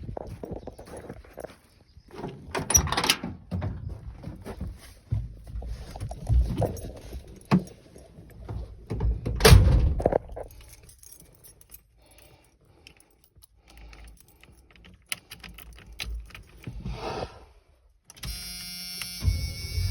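Keys jangling with irregular clattering knocks and thunks; the loudest knocks come about three and nine and a half seconds in. Near the end a steady droning sound with a low rumble begins.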